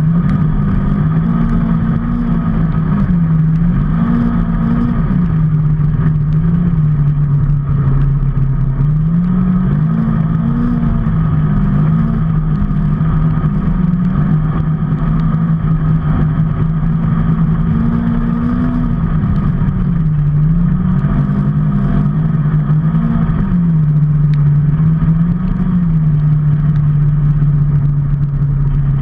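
A vehicle engine running steadily on the move. Its note rises and dips briefly every few seconds with the throttle, over a steady rushing noise.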